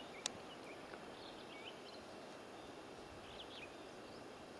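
Faint, scattered short chirps of small birds over a low steady hiss of outdoor background, with one small click about a quarter second in.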